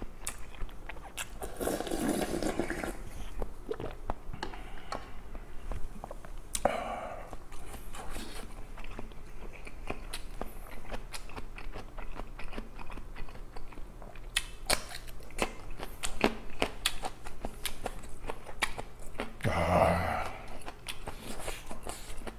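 Close-up chewing and crunching of food, with sharp crunches of biting into a raw green chili pepper. A slurp of stew from a ladle about 2 s in, and a short vocal sound near the end.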